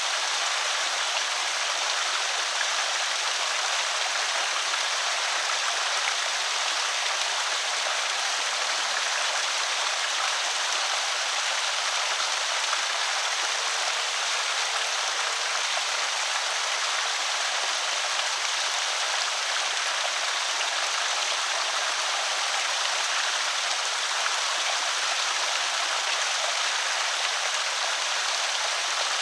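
Creek water spilling steadily over a small spillway, an even, unbroken rushing trickle.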